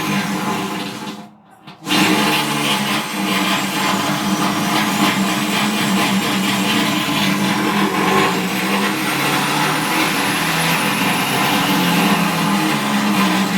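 A handheld electric power tool running continuously while enlarging a drilled hole in sheet steel, with a high whine that wavers in pitch as it bites. It stops briefly about a second in and starts again.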